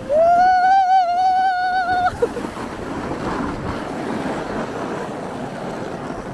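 A person's high, held scream lasting about two seconds and cutting off sharply, followed by a steady rushing noise.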